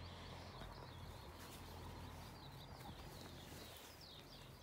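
Faint birdsong: short, high, chirping phrases repeated over and over, over a low steady hum.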